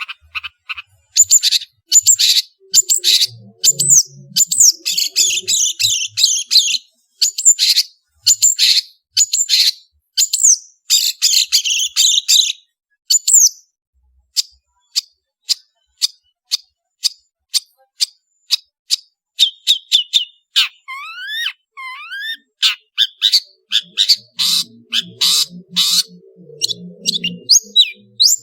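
Long-tailed shrike (cendet) singing in full voice: a rapid run of sharp, high chirps and trills, thinning to single notes midway, with a few rising whistled notes about two-thirds of the way through.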